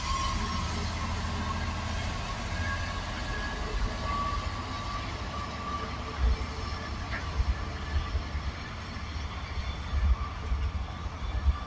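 Freightliner Class 66 diesel locomotive, with its EMD two-stroke V12 engine, running as it passes and pulls away with a container train, the wagons rumbling along the track behind it.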